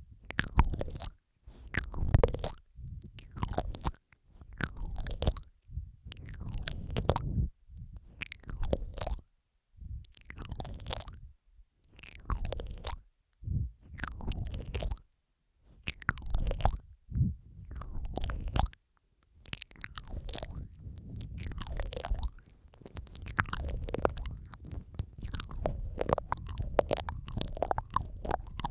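Close-miked ASMR mouth sounds: wet smacking, clicking and licking noises in irregular bursts about every second or two, layered over one another.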